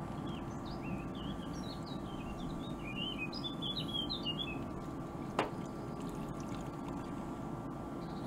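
Small birds chirping in a quick flurry of short high calls, over a steady low hum; a single click about five seconds in.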